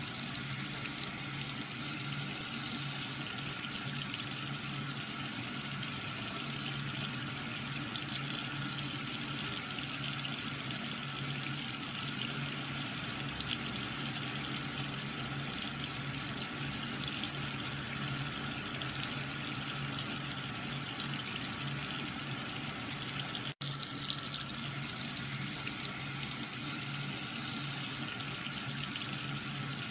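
Steady stream of water splashing, with the low hum of a small electric water pump running underneath; the sound drops out for an instant about two-thirds of the way through.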